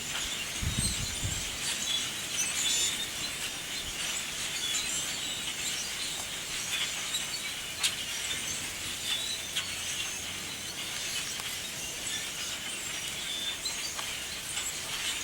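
A large flock of grackles calling all at once: a dense, continuous chatter of short crackling calls. There is a brief low rumble about a second in.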